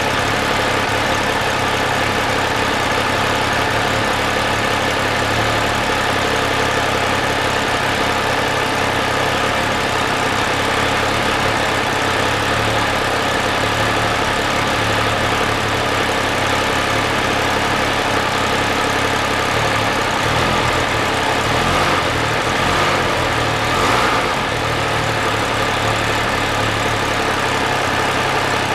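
MV Agusta Dragster 800 RR's 800 cc inline three-cylinder engine running steadily, with a brief swell in revs shortly before the end.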